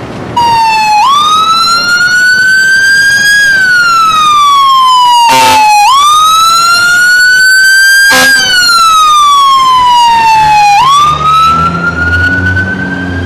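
Emergency vehicle siren in a loud, slow wail, rising and falling about every five seconds. Two sharp knocks cut through it midway, and a low rumble comes in near the end.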